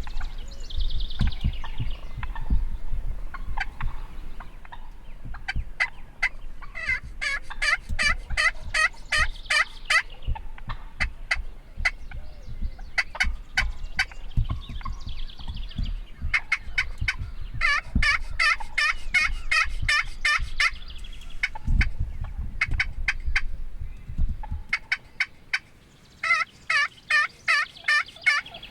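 Wild turkey toms gobbling: three rapid, rattling gobble bouts a few seconds apart, with a low rumble underneath that stops shortly before the last gobble.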